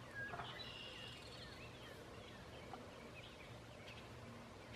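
Faint bird calls, with one louder call in the first second or so and short chirps scattered after it.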